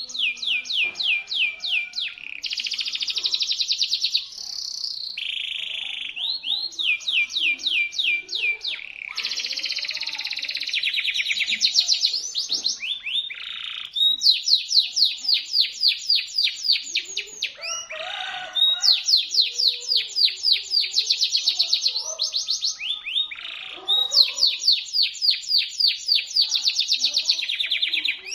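Domestic canary (local Indonesian canary) singing a sharp, shrill, continuous song: fast trills and rolls of rapid repeated notes, each phrase lasting a second or two before switching to the next, with hardly a pause.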